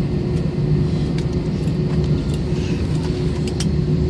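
Plane cabin noise during landing: a steady low rumble with a steady engine hum, and scattered light clicks and rattles.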